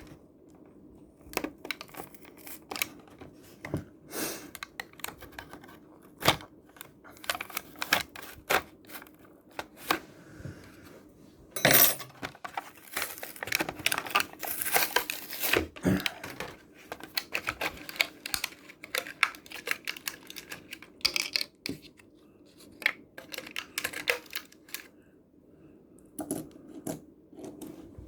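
Cardboard-and-plastic toy blister pack being torn open by hand, with tearing and crinkling and many small clicks and taps. The loudest tearing comes about 12 seconds in and again around 14 to 16 seconds.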